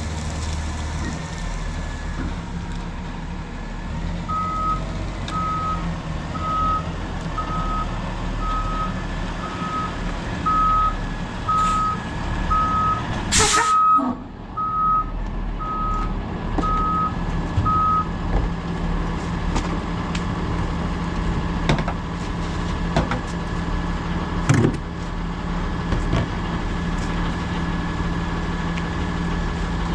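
Autocar ACX garbage truck running with its reversing alarm beeping about once a second for some fourteen seconds as it backs up, a sharp air-brake hiss about halfway through the beeping, then the engine running on with a few clanks.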